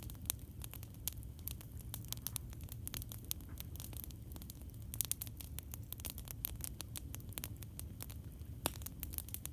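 Campfire crackling, with frequent sharp pops and snaps at irregular intervals over a steady low rumble.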